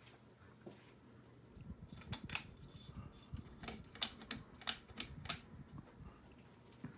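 A run of about a dozen sharp clicks and light clattering of hard objects, starting about two seconds in and stopping at about five seconds.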